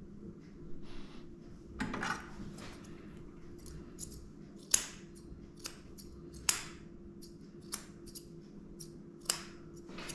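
Grooming scissors snipping through a small dog's matted coat in separate sharp cuts. The loudest snips come about halfway through and near the end, over a faint steady hum.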